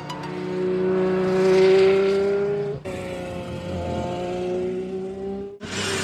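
Sports car engine running at high revs, its pitch slowly climbing as it accelerates. The sound cuts off abruptly twice, a little under three seconds in and again near the end, each time starting again at a similar pitch.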